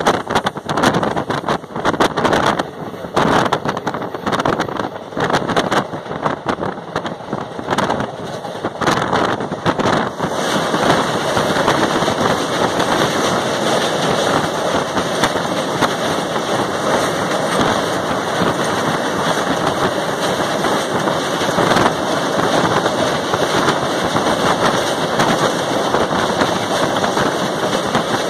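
Passenger train running at speed, heard from an open coach window: a loud rush of wind and wheel noise with sharp, irregular knocks for the first ten seconds. From about ten seconds in it settles into a steadier, fuller rumble as the train runs onto a girder bridge over a river.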